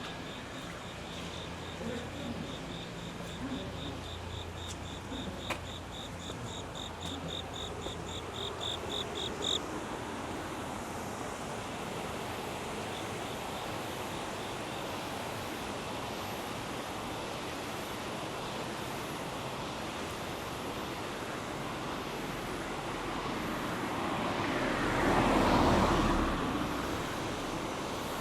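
An insect calling in a rapid, even run of high chirps that grows louder and quicker, then stops abruptly about ten seconds in, over a low steady hum. A steady rushing noise follows, and near the end a passing vehicle swells up and fades away.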